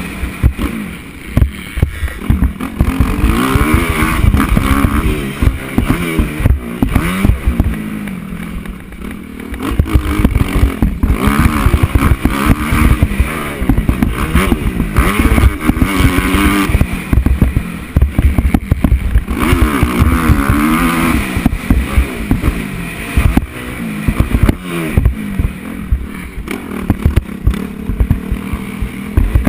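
Motocross bike engine revving up and falling back over and over as it is ridden round the track, with frequent knocks and clatter from the bike over bumps.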